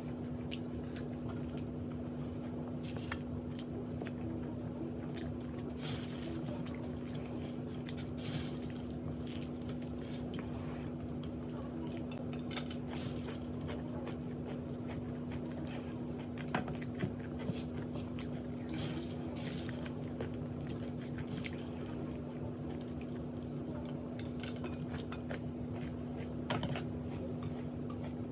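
A person chewing food close to the microphone, with scattered soft crunches and clicks in small clusters, over a steady low electrical hum.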